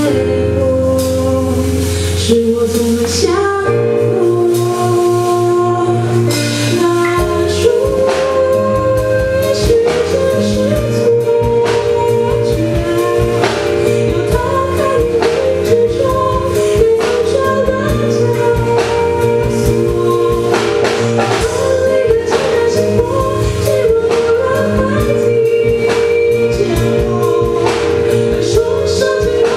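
A piano-rock trio playing a song live: sung vocals over keyboard, bass and a steady drum beat.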